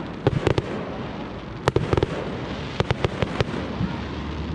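Fireworks display: irregular sharp bangs of bursting shells, several in quick clusters of two or three, over a continuous rushing background.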